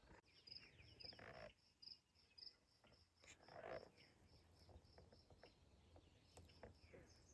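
Near silence with an insect chirping steadily in the background, about four short high chirps a second, and a couple of faint swishes.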